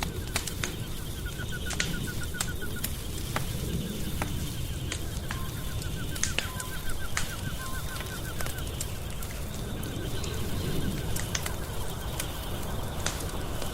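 Wood fire crackling in a fireplace: irregular sharp pops and snaps over a steady low rumble. A faint, rapid, ticking trill comes and goes in several runs of a second or two.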